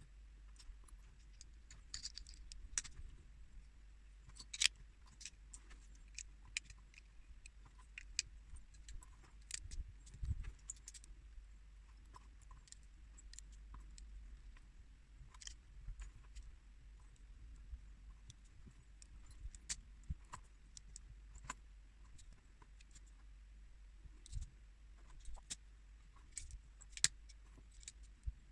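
Small plastic building bricks clicking and rattling as pieces are handled and pressed together, in scattered irregular sharp clicks, over a faint low hum.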